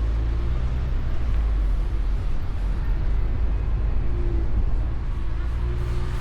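Mustang convertible driving: a steady low rumble of engine, road and wind noise, with no sudden events.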